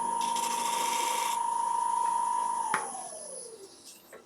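Wood lathe motor running with a steady whine, a scratchy hiss over it in the first second and a half. A click about two and three-quarter seconds in, then the whine falls in pitch and fades as the lathe is switched off and coasts to a stop.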